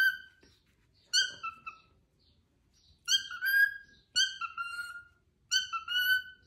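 Cockatiel calling in short, shrill two- and three-note phrases, repeated about five times with pauses between them.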